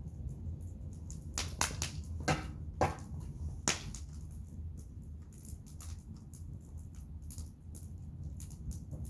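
Wood bonfire crackling: sharp, irregular pops and snaps, the loudest in the first four seconds, over a steady low rumble.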